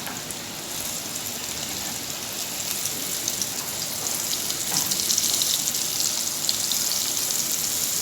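Flour-coated sardines frying in a pan of hot oil: a steady sizzle with scattered crackles and pops, growing louder over the first few seconds.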